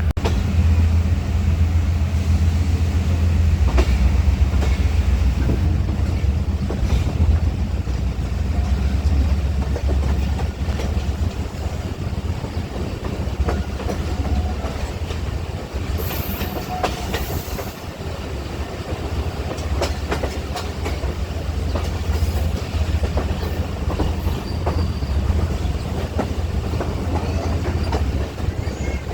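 Passenger train running on the rails, wheels clicking over the rail joints over a steady low rumble, with a brief high squeal about two-thirds of the way through.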